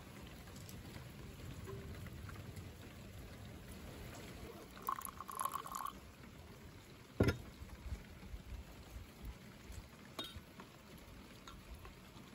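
Liquid being poured, a faint steady wash, with one sharp click about seven seconds in.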